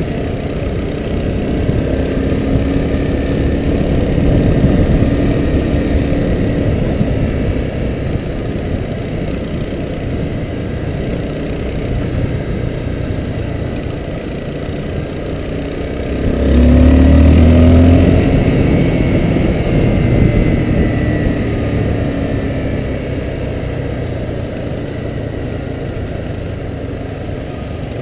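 Honda CBR250R motorcycle's single-cylinder engine running at low speed in traffic, heard from on the bike. About sixteen seconds in it grows louder for about two seconds, with a deep rumble and a changing engine note.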